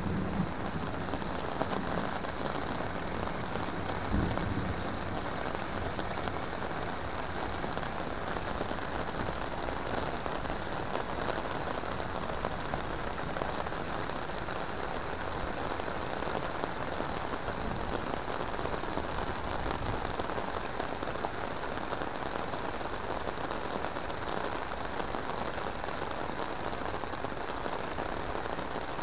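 Heavy rain falling steadily on pond water and plants, with one brief low thump about four seconds in.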